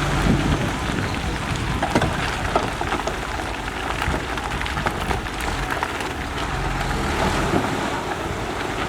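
Diesel engine of heavy earthmoving equipment running steadily, under a constant crackle of small clicks and rattles, with wind noise on the microphone.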